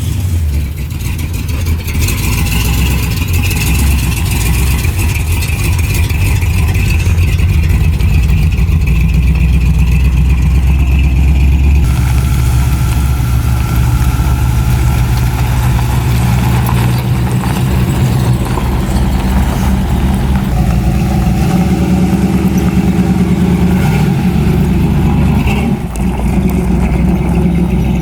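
Car engine running, a loud low drone that holds steady and then shifts pitch and level in sudden steps several times.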